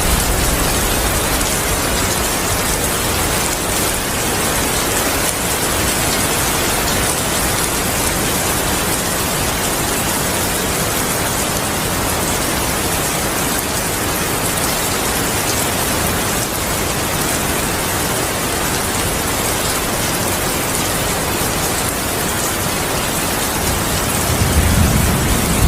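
Steady heavy rainfall, an even hiss of drops. Near the end a low thunder rumble begins to build.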